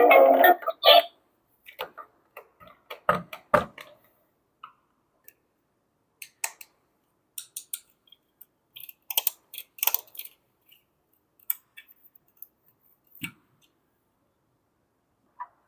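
Scattered clicks and light knocks of plastic toy pieces being handled, after a short, loud pitched sound in the first second.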